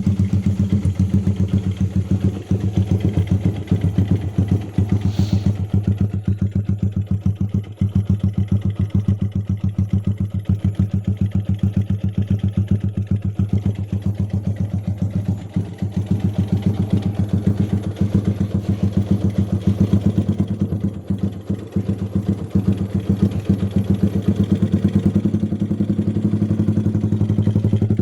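Motorcycle engine idling through a replica JRM racing exhaust with a deep bass note, a fast, even pulsing that stays steady and gets slightly louder near the end.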